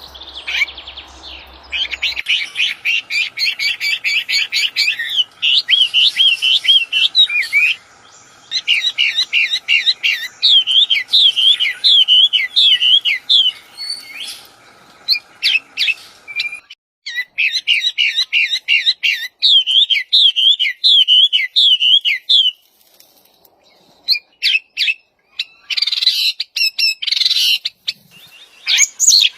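Wambi songbird singing vigorously: fast runs of high chirps and looping, slurred whistled notes in a string of phrases broken by short pauses.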